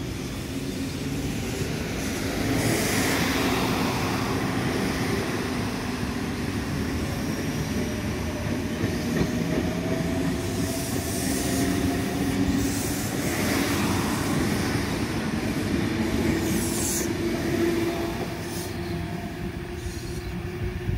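Sydney Trains double-deck electric trains running past on the track: a steady rumble of wheels on rail with a faint motor whine that slowly rises in pitch. There are a few brief high hissing bursts, and the sound eases off near the end.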